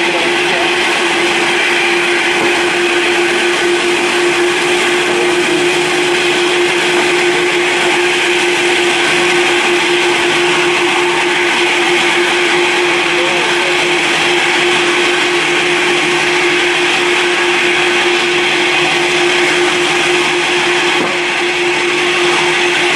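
Jet airliner engines running steadily: a loud, even rushing hiss with a constant low whine underneath that neither rises nor falls.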